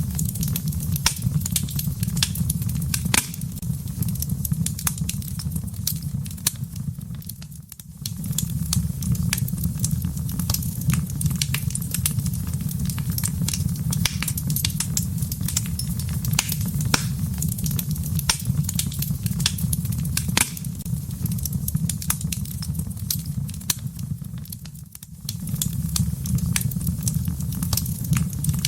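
Wood fire burning in a fireplace: a steady low rumble of flames with frequent sharp crackles and pops. The sound dips briefly twice, about a quarter of the way in and again near the end.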